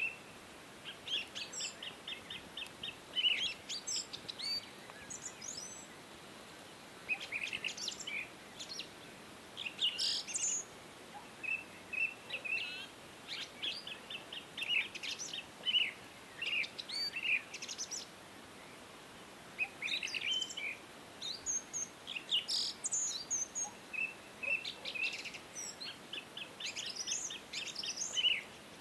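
Several small birds chirping and trilling in quick series of short, high notes, with brief lulls, over a faint steady hiss.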